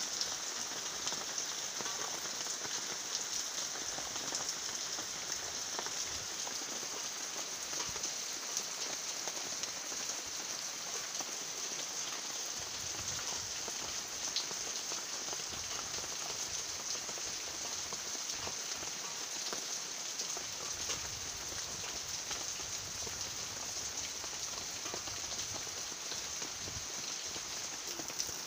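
Steady rain falling on trees and leaves: a constant even hiss with scattered small ticks of single drops.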